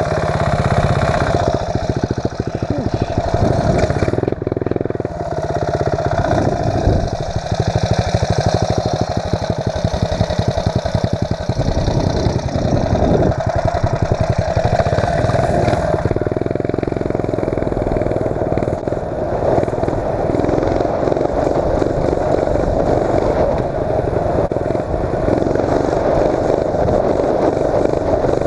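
The mini bike's 8 hp Tecumseh single-cylinder engine running continuously as it is ridden, with a fast, even firing beat. The character of the sound changes about halfway through.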